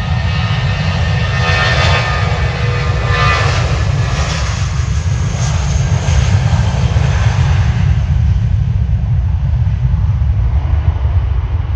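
Jet airliner passing close by, a loud engine rumble with a whine that swells and then fades away from about two-thirds of the way through.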